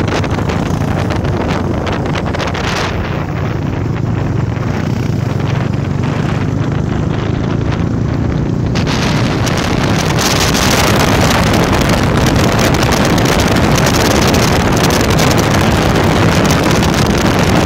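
Honda Tornado single-cylinder motorcycle engine, enlarged to 299cc, running steadily on the move, with heavy wind noise on the microphone that grows louder about ten seconds in.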